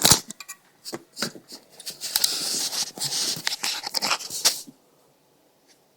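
Handling noises: a sharp knock at the start, scattered clicks, then a couple of seconds of rustling and clicking, as a box of batteries weighting a freshly glued subwoofer cone is settled and adjusted.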